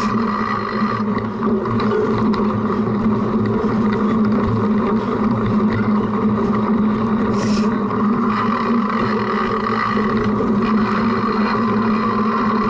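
Steady rumbling drone of a cyclocross bike being ridden over a rough course, picked up through the bike's front-mounted action camera, with a brief scrape about seven seconds in.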